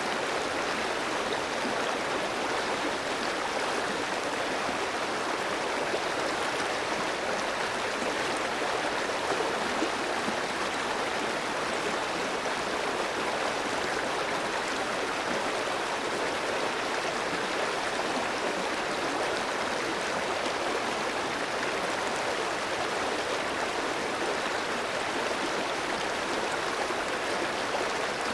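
Clear stream flowing steadily over rocks, an even rushing and gurgling of water.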